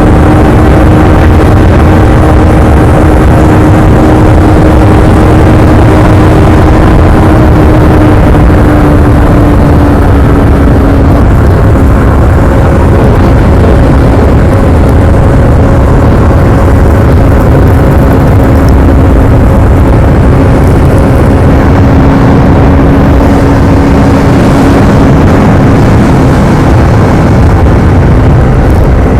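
Yamaha R25's 250 cc parallel-twin engine on its stock exhaust, running at a steady riding pace under a heavy low rumble. Its note holds nearly level, dipping slightly about ten seconds in.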